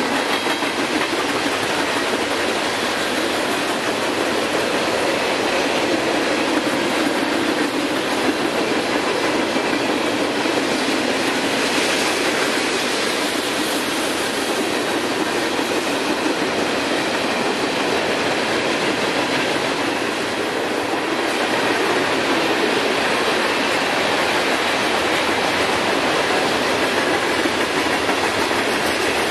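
Freight cars rolling past at speed: a steady, loud noise of steel wheels running on rail, with some clatter over the rail joints.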